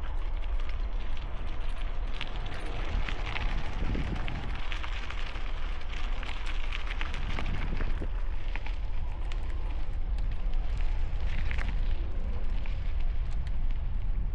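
Wind rumbling over a helmet-mounted camera microphone on a moving bicycle, with continual crackling from the tyres rolling over the trail.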